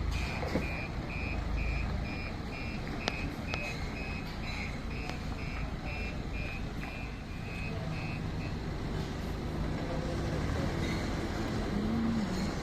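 A truck's reversing alarm beeping steadily, about twice a second, over the low rumble of the engine; the beeping stops about two-thirds of the way through.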